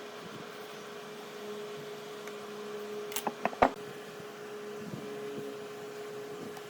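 A steady mechanical hum, like a small motor or fan running, with a quick run of four or five sharp knocks about three seconds in, the last one the loudest.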